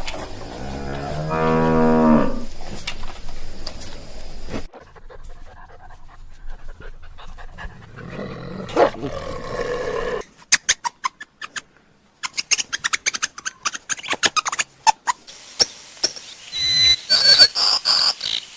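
A cow mooing: one long, low call in the first few seconds. Later come other, quieter animal and farmyard sounds, including a run of sharp clicks and some higher-pitched calls near the end.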